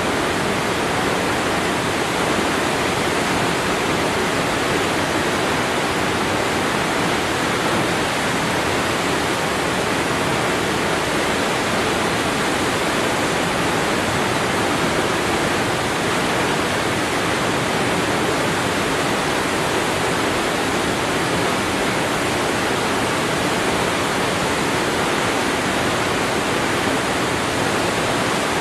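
Waterfall: water falling and rushing in a steady, unbroken roar of noise that does not change.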